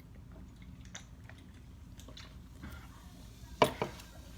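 A person chewing food close to the microphone, with small wet mouth clicks. About three and a half seconds in come two sharp, loud clicks in quick succession.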